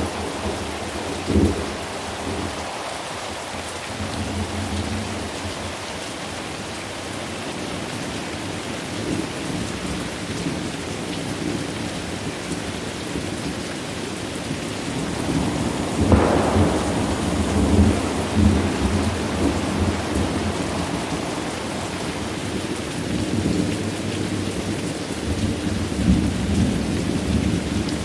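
Steady rain with rolling thunder; a sharp, louder thunderclap breaks in about sixteen seconds in and rumbles on, with smaller jolts of thunder around it.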